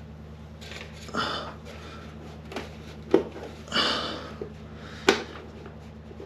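Hands working at an old bathroom exhaust fan's plastic housing, trying to work its plug loose. There is rustling and scraping, with two sharp plastic knocks about three and five seconds in, over a steady low hum.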